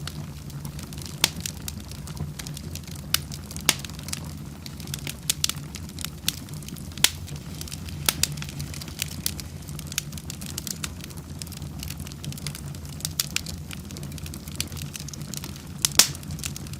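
Wood fire burning in a fireplace: a steady low rush of flames with irregular sharp crackles and pops, a couple of louder pops near the end.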